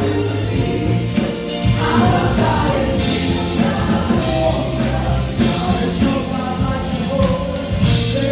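Gospel music with a choir singing over a full band with bass and drums.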